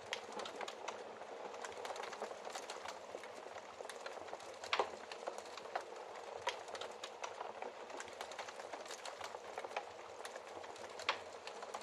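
Wood fire crackling in a fireplace: a steady soft hiss with many small pops and snaps, and a couple of louder pops, one about five seconds in and one near the end.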